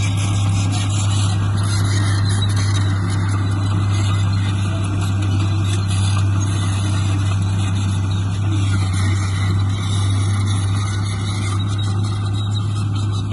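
Diesel engine of heavy earthmoving machinery running steadily, with a strong even low hum.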